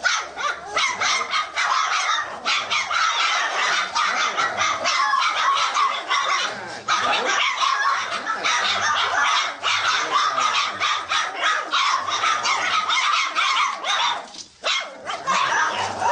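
Dogs barking in quick, repeated barks that go on almost without pause, with short breaks about seven seconds in and near the end.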